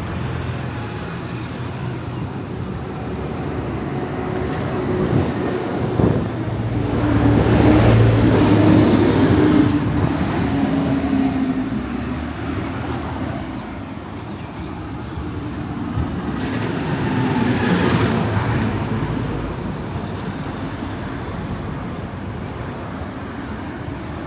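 Street traffic: a steady background of running vehicles, with two vehicles passing close by, the first and louder about a third of the way in, the second about three-quarters of the way in.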